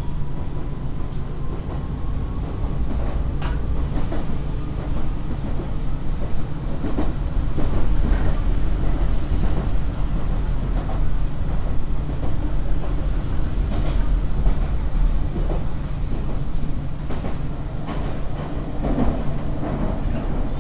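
Nankai electric commuter train running on the line, a steady low rumble with irregular clicks of the wheels over rail joints, picking up speed to about 50 km/h.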